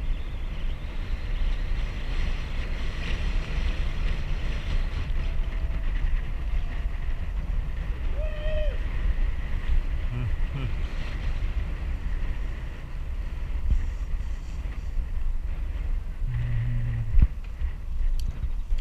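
Wind buffeting a bike-mounted action camera's microphone while cycling, a steady low rumble throughout. A brief high tone sounds about eight seconds in.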